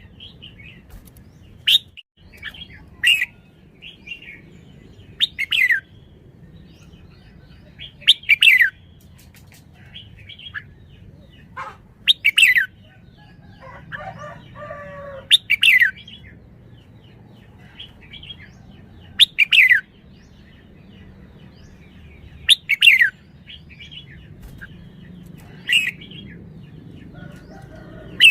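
Red-whiskered bulbul calling: short, bright phrases repeated every three to four seconds, with softer chirps between. About halfway through, a lower, longer call sounds.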